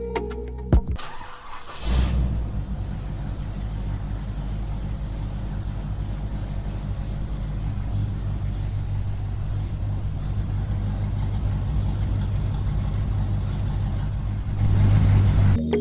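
A small engine running steadily at constant speed, starting about two seconds in, getting a little louder near the end, then cutting off suddenly.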